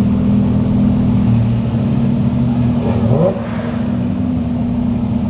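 Car engine running at idle nearby with a steady low hum, and a brief rev rising in pitch about three seconds in.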